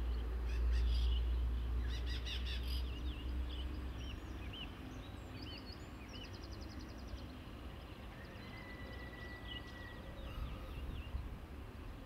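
Several birds singing and calling, with short chirps and a quick trill, over a low rumble that fades after the first few seconds.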